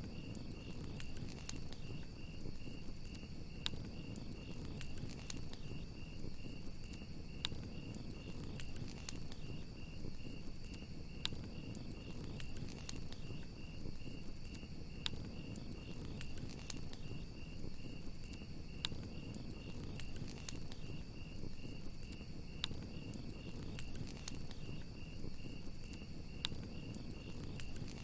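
Campfire crackling, with sharp pops every second or so over a low rush of burning wood, while crickets chirp in a fast, even pulse and a higher insect trill runs steadily.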